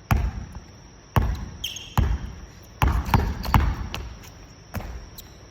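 Basketballs bouncing on a hard gym floor, about seven irregular echoing thuds, with a brief high squeak about one and a half seconds in.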